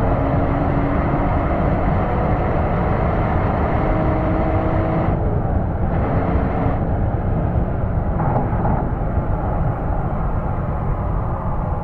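Porsche Boxster S 3.2-litre flat-six exhaust under way, picked up close to the tailpipe outside the car, with the engine note rising gently under throttle over road and wind noise. The upper part of the note drops away briefly twice, about five and nearly seven seconds in, as the throttle closes.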